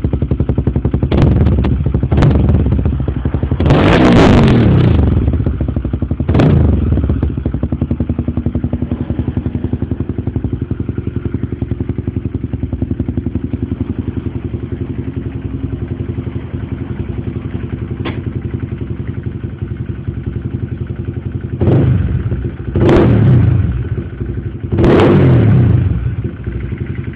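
Honda CBR150i single-cylinder engine idling through an aftermarket exhaust, with the throttle blipped sharply about seven times: a few quick revs in the first seven seconds, a long steady idle, then three more revs near the end.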